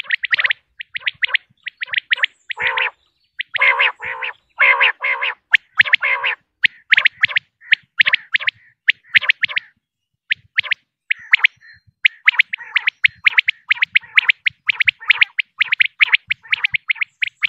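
Female common quail calling in a rapid, continuous string of short, sharp notes. Between about two and a half and six seconds in there are a few harsher, lower rattling bursts, and there is a short break near the middle.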